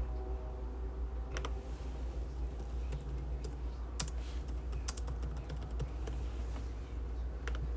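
Typing on a computer keyboard: scattered, irregular key clicks, over a steady low hum.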